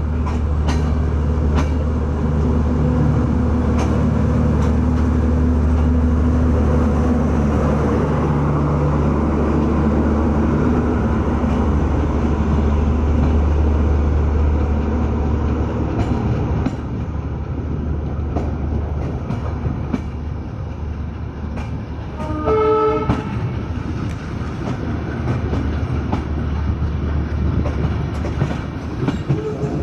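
Silkcity Express passenger train running on the rails: a steady low drone with wheels clacking over rail joints, the drone easing off about halfway. A short horn blast sounds once about three-quarters of the way through.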